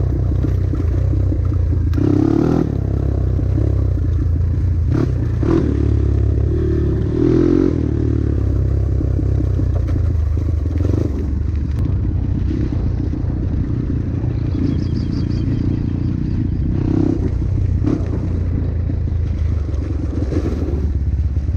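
Trail motorcycle engine running steadily under way, with repeated clattering knocks from the bike over rough ground.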